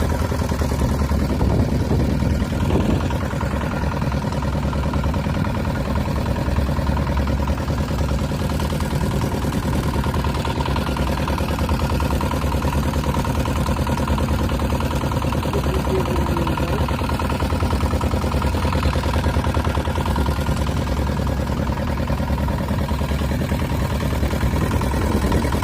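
A boat's engine running steadily at an even pitch.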